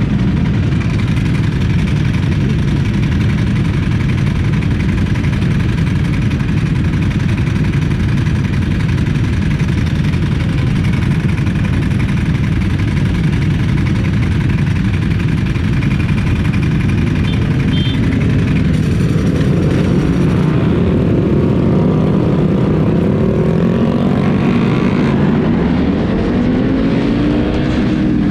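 Motorcycle under way: a steady loud rush of engine and wind noise. From about two-thirds of the way in, the engine note climbs and falls several times as the bike accelerates and the rider shifts.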